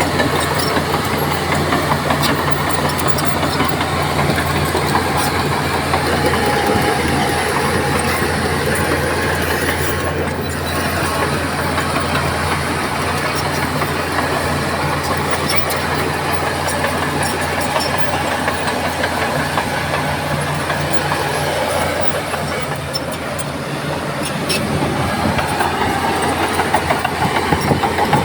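Heavy diesel engine of earthmoving machinery running steadily under load. It eases briefly about three-quarters of the way through, then picks up again.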